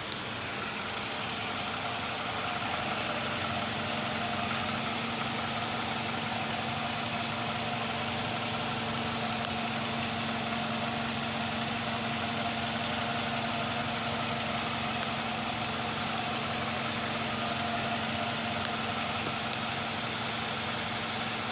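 Toyota RAV4 engine idling steadily, with a constant low hum; it grows a little louder over the first couple of seconds and then holds even.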